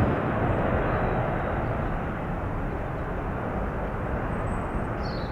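Airbus A380's four jet engines rumbling as it departs, slowly fading away. A bird chirps briefly near the end.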